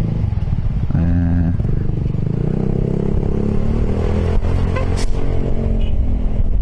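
Piaggio X10 maxi-scooter engine running under way, its pitch rising gradually through the middle. Two sharp clicks come about four and five seconds in.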